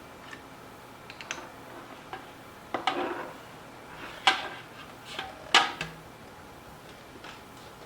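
Hard plastic humidifier parts knocking and clicking as they are handled and fitted together: a scraping rattle about three seconds in, then two sharp clicks a little over a second apart.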